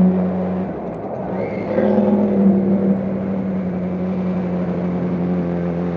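Motorcycle engine running steadily under a rider's microphone, with road and wind noise; the engine note picks up a little about two seconds in.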